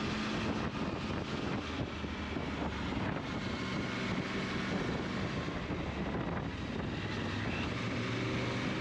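Motorcycle engine running steadily under wind noise on the microphone while riding.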